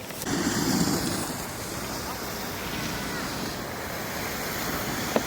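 Wind rushing over the microphone and the steady hiss of sliding over snow on a ski slope. The noise is louder for a moment about half a second in, and there is one sharp click near the end.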